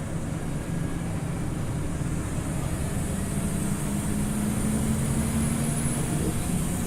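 Scania OmniLink CL94UB city bus running under way, a steady low engine hum whose tone rises slightly in pitch about three seconds in.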